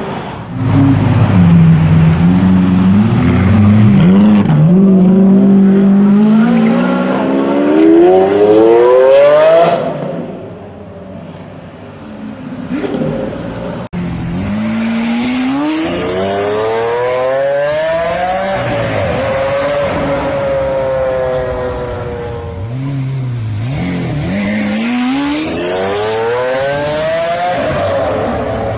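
Lamborghini supercar engines accelerating hard with loud exhaust, their pitch climbing again and again as they rev up through the gears. The sound is loudest in the first third, eases off briefly, then changes abruptly about halfway through to another car revving and accelerating.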